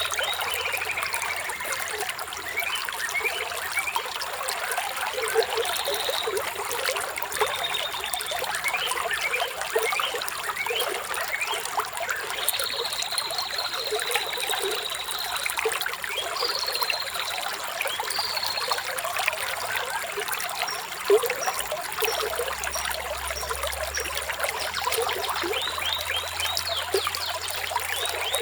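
Flowing stream water trickling and bubbling steadily, with birds chirping over it: a falling note near the start and a long high whistled note around the middle.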